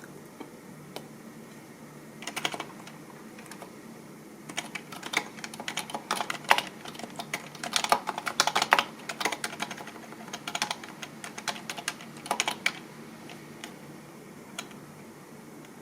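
Typing on a computer keyboard: a few single keystrokes, a short flurry about two seconds in, then a fast run of keystrokes from about four to thirteen seconds in, thinning to the odd tap near the end.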